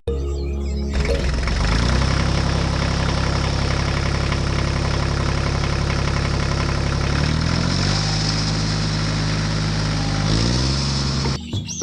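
An engine running steadily with a low hum, its pitch rising briefly in the first second or so, dropping about seven seconds in and climbing again about ten seconds in, then cutting off abruptly just before the end.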